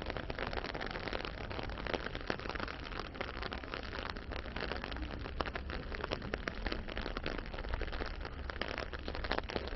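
Steady rain pattering, a dense spatter of fine drops over a constant low rumble.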